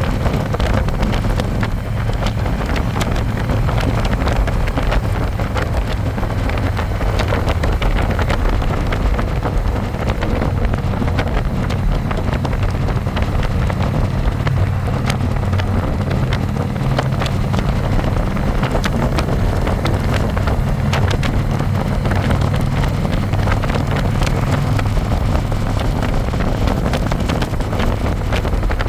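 Harley-Davidson Electra Glide's V-twin engine running steadily under way, with wind buffeting the microphone.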